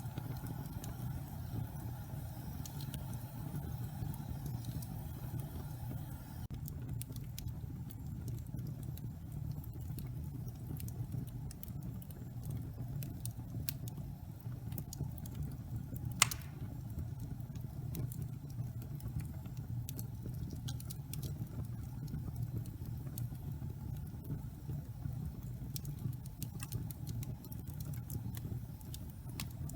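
Wood logs burning in a fireplace: a steady low rumble of flames with scattered small crackles, and one loud sharp pop about halfway through.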